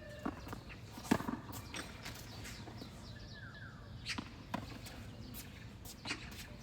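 Tennis balls being struck with rackets and bouncing on the court during a rally: sharp knocks a second or two apart, the loudest about a second in.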